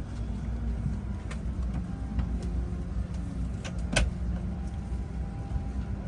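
Steady low rumble of a vehicle running, with scattered light clicks and one sharp click about four seconds in.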